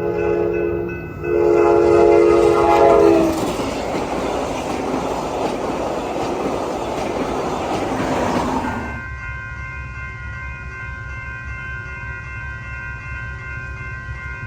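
Train horn sounding a short blast and then a longer one, followed by the train passing with a loud rush of wheel and rail noise that drops off about nine seconds in, leaving a low rumble and steady high tones.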